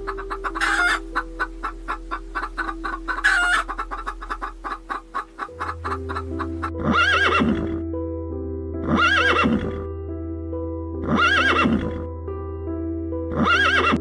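Animal calls over background music: a fast run of clicks with two short calls in the first half, then four similar calls of about a second each, spaced roughly two seconds apart.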